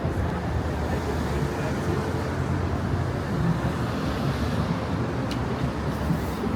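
Steady city street traffic noise: cars passing along a busy avenue with a low engine hum.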